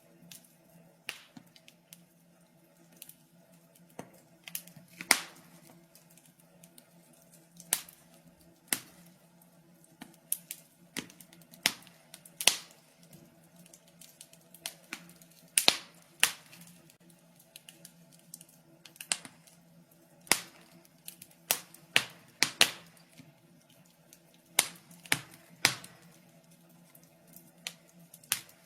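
Wood fire crackling in a fireplace: irregular sharp snaps and pops, some loud, coming in loose clusters, over a faint steady low hum.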